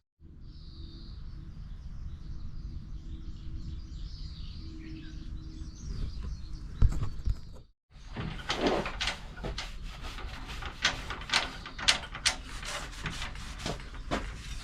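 Faint bird chirps over a steady outdoor background. After a cut about halfway through, a run of irregular clicks and knocks from objects being handled.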